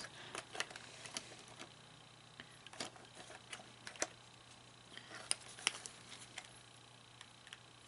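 Light, irregular clicks and taps of small plastic parts being handled and fitted into an animatronic toy's motor gearbox, a few sharper clicks in the middle, over a faint steady hum.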